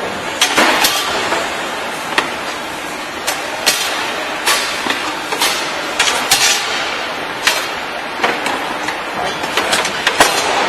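Factory machinery running with a steady noise, with irregular metallic clanks and knocks over it.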